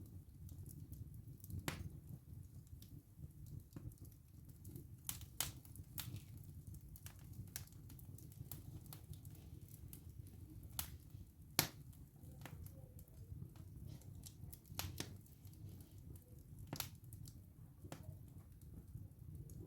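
Wood fire burning in a fireplace: a low steady rumble of flames under frequent, irregular sharp crackles and pops from the burning wood, the loudest pop a little past halfway.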